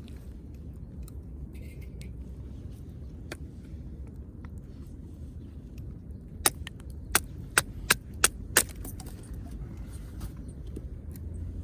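Campfire burning with a steady low rumble, and a quick run of about six sharp crackles a little past halfway.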